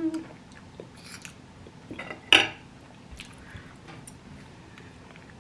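Fork or knife clinking and scraping on a plate while eating, with small eating sounds between, and one louder clatter a little over two seconds in.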